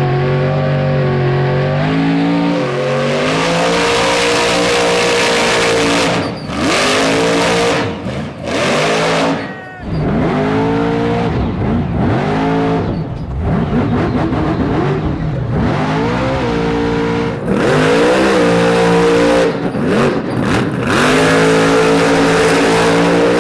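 Son-uva Digger monster truck's supercharged V8 revving hard up and down over and over, with several sudden throttle lifts.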